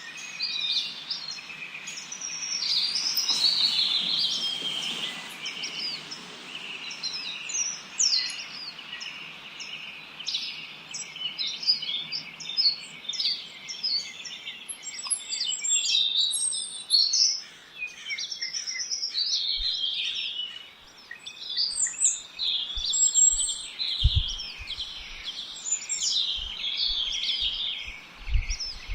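Many small songbirds chirping and singing at once in a dense, overlapping chorus of short, quick high notes and trills. A few low bumps come in near the end.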